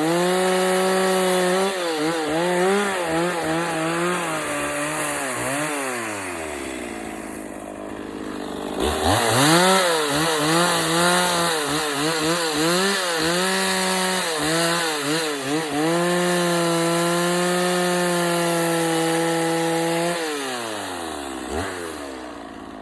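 Two-stroke chainsaw carving into a wooden log, its engine pitch dipping and rising as the chain bites. It drops to idle about six seconds in, revs back up a couple of seconds later, holds at full throttle, then falls back to idle near the end.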